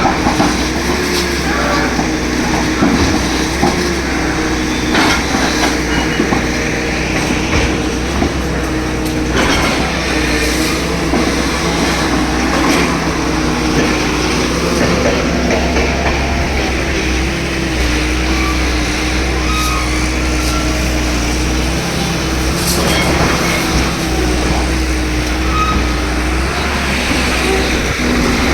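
Heavy machinery's engine running steadily with a slowly wavering pitch, with scattered knocks and bangs throughout.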